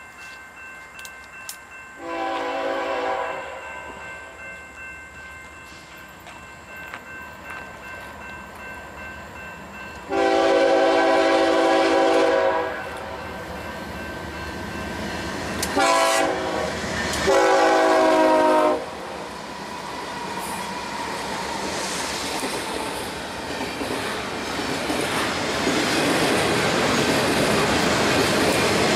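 BNSF freight locomotive's air horn sounding four blasts, long, long, short, long, the grade-crossing signal, as the train approaches. The locomotives and double-stack intermodal cars then rumble past, with rolling and clatter of wheels on rail getting steadily louder.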